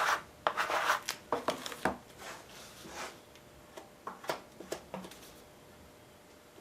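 Body filler being scraped and smeared with a spreader: a quick run of rough scraping strokes, then a few sharp scrapes and taps about four to five seconds in, trailing off to quiet handling.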